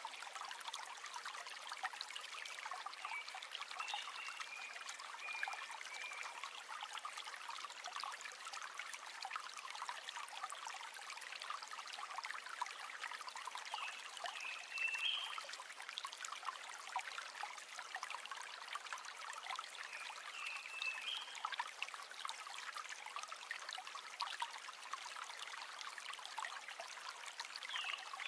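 River water flowing with a steady trickling, bubbling babble.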